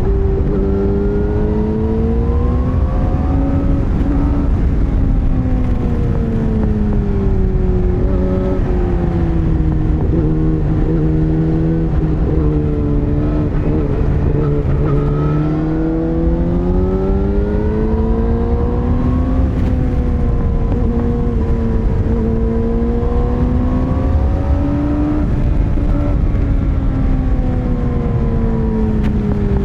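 Yamaha R6 motorcycle's inline-four engine running under way, its pitch rising and falling smoothly as the throttle is opened and eased. A steady low rush runs beneath it.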